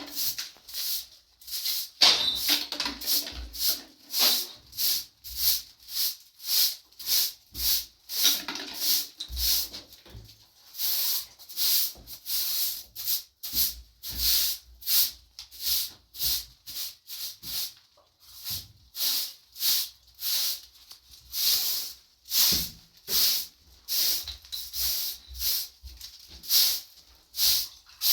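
Rhythmic swishing strokes of a brush, about two a second, keeping up steadily with only a brief lull.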